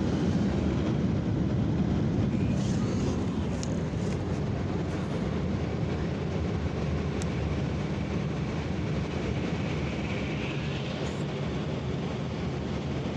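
Automatic car wash's air-dryer blowers running, a steady heavy rush of air heard from inside the closed car and easing slightly toward the end.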